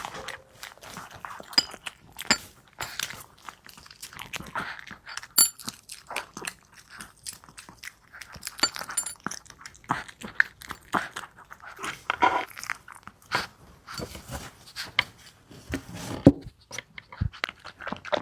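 Small dog eating its food, with irregular crunching and chewing and the clicks of its bites.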